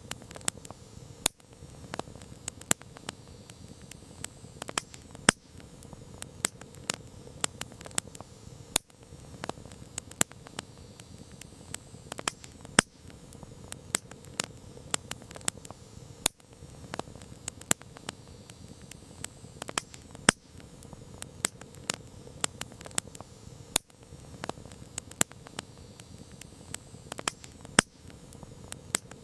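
Wood campfire crackling: irregular sharp pops and snaps, a few of them loud, over a low steady hiss of the burning fire.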